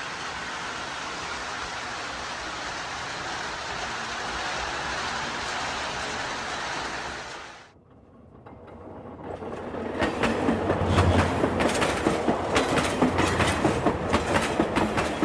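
O-scale model train running on the layout's track, its wheels clicking rapidly over the rail joints over a low motor hum. Before it, a steady rushing noise fades out about halfway through.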